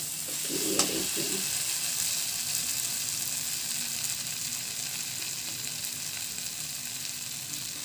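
Mashed boiled potatoes and spice masala sizzling steadily in hot oil in a kadhai, with a flat spatula stirring and scraping against the pan, knocking a few times about a second in.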